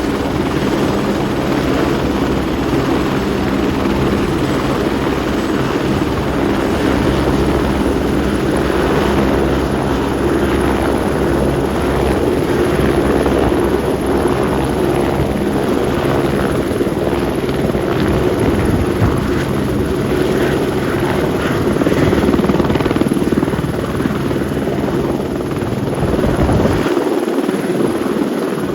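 Helicopter's turbine engine and rotor running at a steady level, with a low, even hum under a broad rush of noise.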